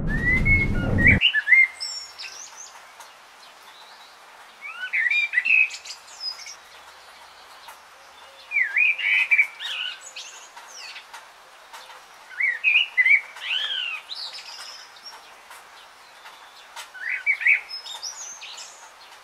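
A songbird singing short phrases of quick, gliding whistled notes, about one phrase every four seconds. A low rumble cuts off about a second in.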